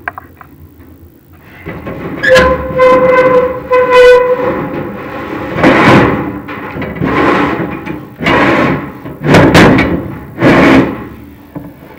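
Chimney inspection camera scraping down the inside of a prefabricated fireplace's metal flue: a squeal of metal on metal lasting about two seconds early on, then a run of rough scraping strokes.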